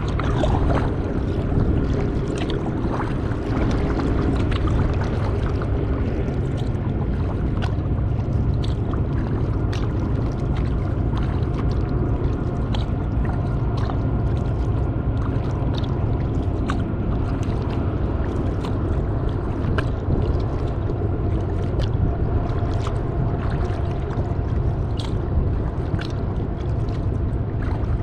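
Kayak paddling: water splashing and dripping off the paddle in many small ticks over a steady low rumble. Faint steady tones run underneath.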